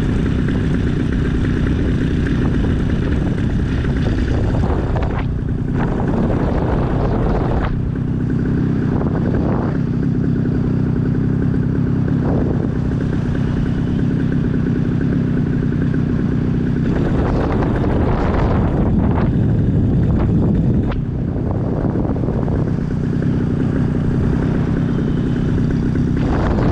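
Light aircraft engine idling steadily in a power-off glide, left running during a simulated engine failure. Wind rushes over the microphone now and then.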